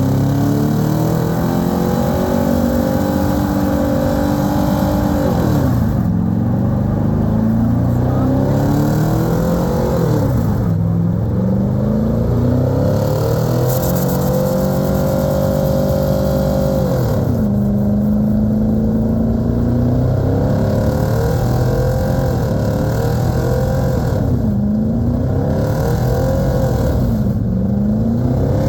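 Truck engine being revved hard, several times over. It climbs to high revs, holds there for a few seconds and falls back, and near the end gives two short, quick blips of the throttle.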